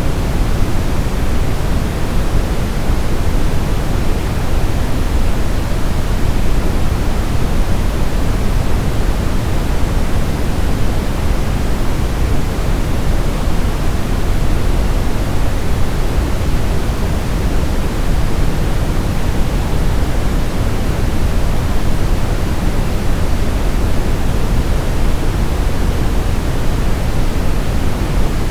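Steady, unchanging sleep white noise for babies, of the soft, deep kind (pink noise) rather than a thin hiss.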